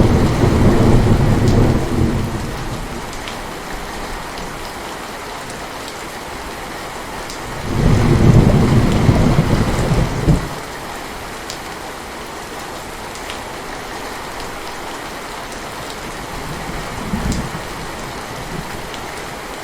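Heavy, steady rain with thunder rolling over it. A rumble fades over the first two seconds, and a second, louder roll comes about halfway through and stops abruptly. A small rumble follows near the end.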